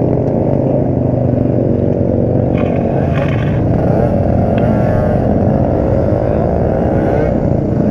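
Motorcycle engine running at a steady speed, its pitch wavering only slightly.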